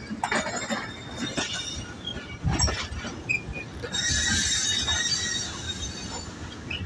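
Passenger train under way: irregular clanks and rattles of the coaches on the track, with a high-pitched wheel squeal from about four seconds in that lasts over a second.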